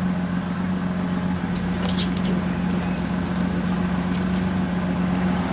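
Vehicle engine idling steadily, with a few faint clicks and creaks about two seconds in.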